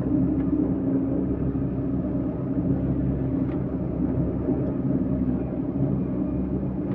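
Heavy diesel vehicle engine running steadily at an even speed: a low rumble with a steady droning hum.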